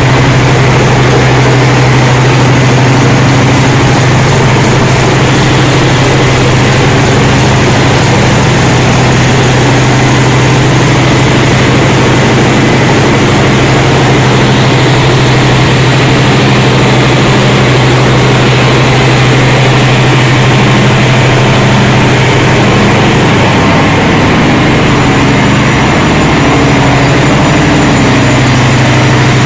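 Ship's engine-room diesel machinery running, a loud, steady drone with a strong low hum that wavers briefly near the end.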